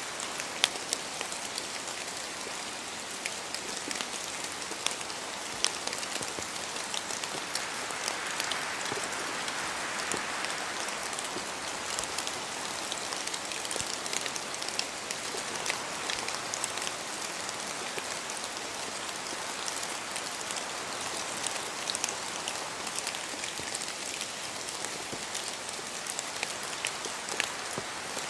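Steady rain falling through forest trees, with many separate drops ticking sharply. The rain swells a little about a third of the way in.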